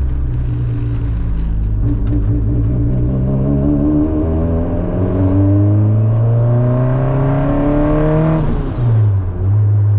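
Turbocharged Honda Civic engine accelerating through a gear, its pitch climbing steadily for several seconds with a faint high whistle rising alongside, then dropping sharply near the end at a gear change and running steadily after.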